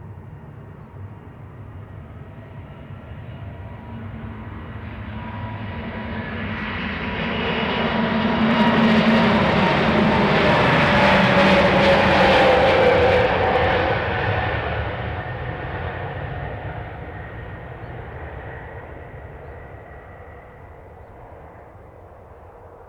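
ANA Airbus A321neo twin-jet taking off and passing overhead, its jet engines swelling to a peak about ten seconds in and then fading, with a whine that falls in pitch as it goes by.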